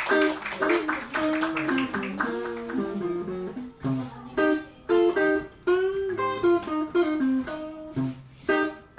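Live band music led by a guitar playing a melodic run of single plucked notes.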